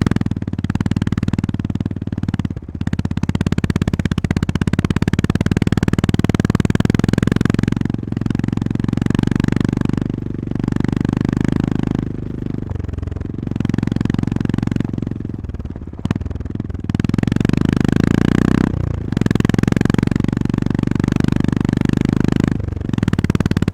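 Honda GB350S single-cylinder engine running under way, the engine note steady and dropping briefly several times as the throttle eases off and opens again.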